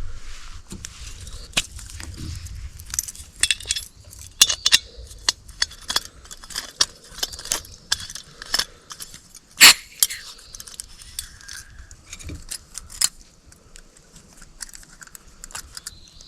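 Camp cookware and utensils being handled: irregular metallic clinks, taps and rattles, with one louder clank about ten seconds in.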